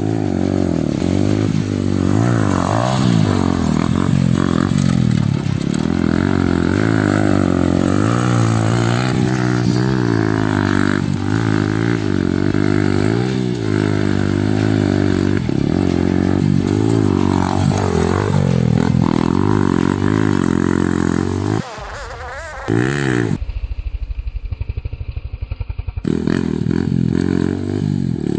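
Yamaha R15 150cc single-cylinder four-stroke motorcycle engine revving up and down repeatedly. About two-thirds of the way through it drops away briefly, gives way to a few seconds of thinner, steady pulsing, then the revving returns.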